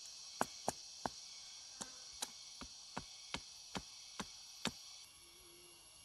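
A blade or tool chopping into wood: about a dozen sharp, unevenly spaced strikes. Behind them is a steady high chorus of insects that drops off about five seconds in.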